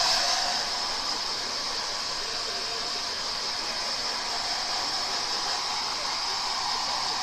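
Hair dryer running steadily, a constant rush of air with a high whine; its tone shifts slightly just after the start.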